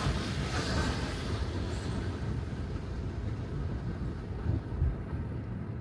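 Road and tyre noise of a Tesla Model 3 driving on wet pavement: a steady low rumble with no engine note. A hissing swish at the start fades away over the first second or two.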